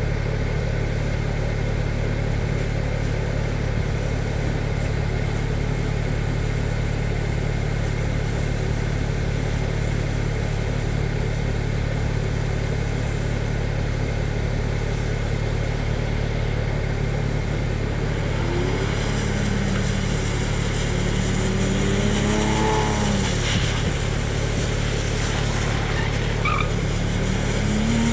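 BMW cars being driven around a wet handling course, heard over a steady low engine hum. About two-thirds of the way in, an engine note rises and falls several times as a car is revved through the course, with a hiss alongside.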